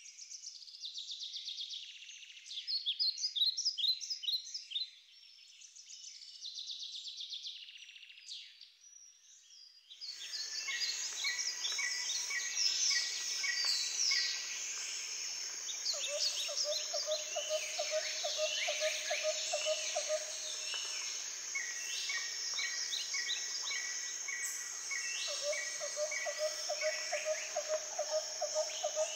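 Birds chirping and singing. About a third of the way in it becomes a denser chorus of many birds, with a low, fast trill heard twice in the second half.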